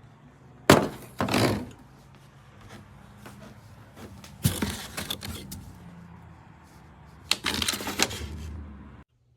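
Handling noises: sharp clicks and knocks with short rustling bursts, in four clusters over a low steady hum, cutting off abruptly near the end.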